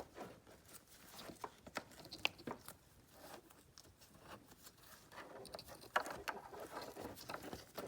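Faint, scattered clicks, taps and rustles of hands handling plastic wiring-harness connectors and cables.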